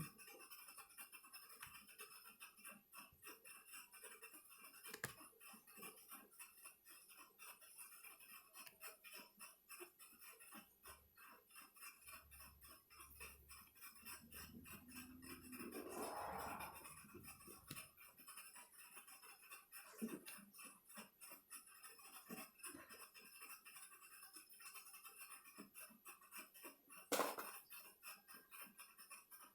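Near silence with faint scattered clicks and taps of a small screwdriver and screws as a laptop's bottom panel is unscrewed. There is a sharper click near the end and a brief rising swish about halfway through.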